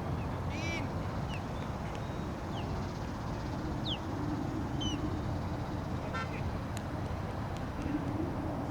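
Outdoor background: a steady low rumble, with a faint held hum in two stretches, a few short high chirps and two brief calls about half a second and six seconds in.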